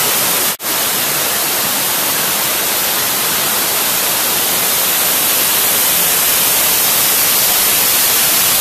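Waterfall heard close up, really loud: an even rush of falling water. The sound drops out for a split second about half a second in.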